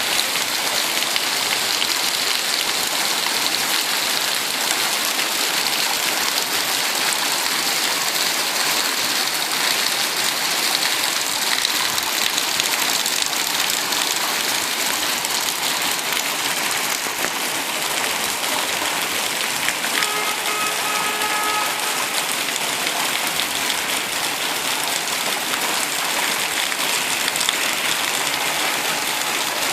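Steady, even hiss of heavy rain falling. About two-thirds of the way through, a brief pitched tone sounds faintly over the rain for about a second and a half.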